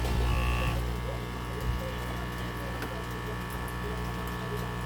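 Hot air rework station's blower fan running steadily, a constant motor whir over an electrical hum, with the repaired heater control working.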